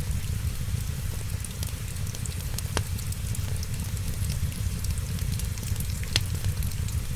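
Wood fire crackling, with two louder pops, over steady rain and a low rumble.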